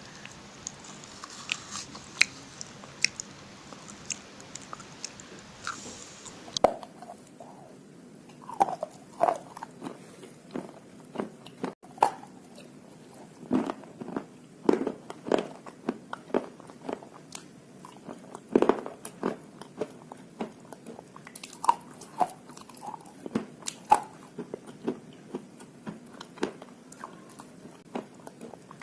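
Slate pencils dipped in slate pencil paste being bitten and chewed close to the microphone: a long run of irregular crisp crunches and chewing sounds.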